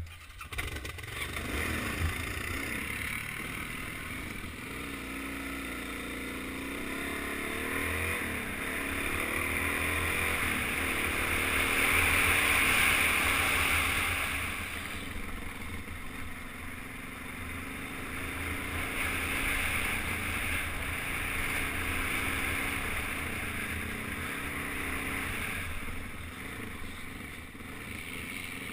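Suzuki DR-Z400's single-cylinder four-stroke engine starting up, then revving up and down as the dirt bike rides along the trail, heard from the rider's helmet camera.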